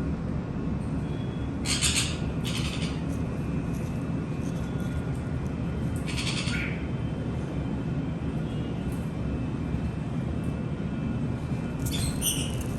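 Conures giving short, harsh squawks: two close together about two seconds in, one near the middle and one near the end. A steady low rumble runs underneath.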